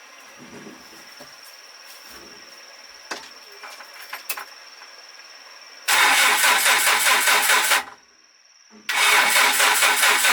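An old truck's engine being cranked over by its starter in two bursts of about two seconds each, with a rapid pulsing beat, each cut off abruptly: attempts to start the restored engine. A few light clicks come before the first attempt.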